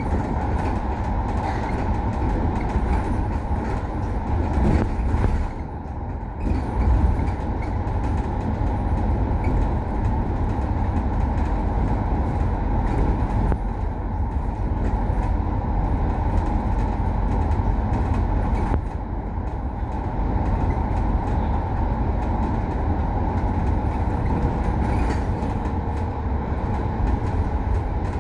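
A KMB bus in motion: steady engine and road rumble, dipping briefly about six seconds in before settling back.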